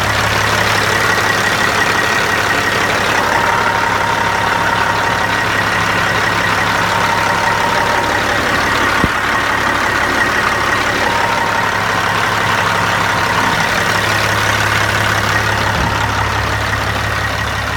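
Peterbilt 379's diesel engine idling steadily, fully warmed up, heard close by at the crankcase blow-by tube.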